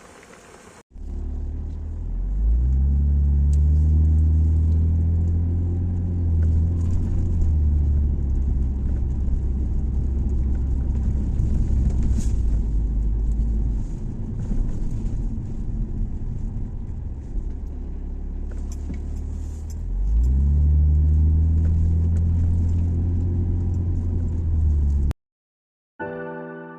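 Car engine running with a heavy low rumble, its pitch rising as it accelerates about two seconds in and again near the end, then cutting off suddenly.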